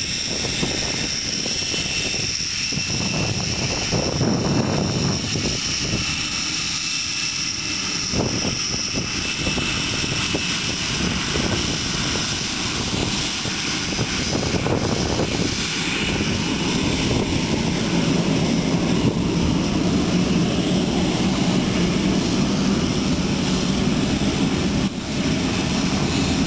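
Fixed-wing aircraft engine running steadily as a plane departs. A steadier, slightly louder low drone sets in about two-thirds of the way through.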